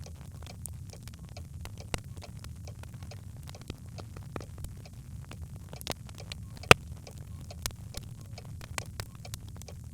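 Birchwood fire crackling in a fireplace: a steady low rumble of the flames with irregular small pops and snaps, one sharper pop about two-thirds of the way through.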